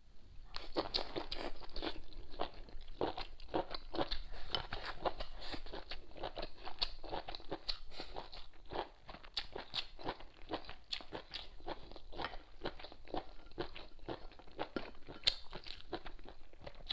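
A person chewing pieces of hotpot food close to the microphone: a steady run of small crunching clicks.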